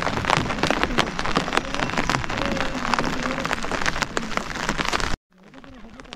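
Rain pattering on a surface: a dense hiss full of sharp drop taps. It cuts off abruptly about five seconds in and returns fainter.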